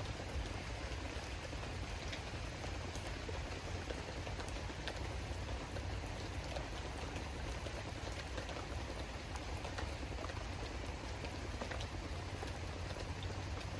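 Steady rain falling, with scattered individual drops ticking close by over a continuous hiss and a low rumble underneath.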